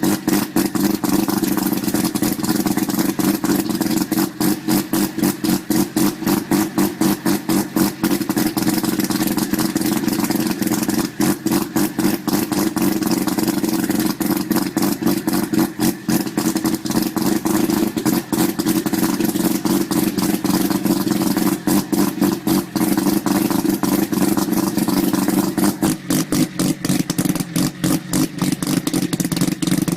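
Methanol-fuelled turbocharged 13B twin-rotor rotary engine running loud and steady at a choppy idle, with a rapid chatter of pulses. The note settles slightly lower near the end.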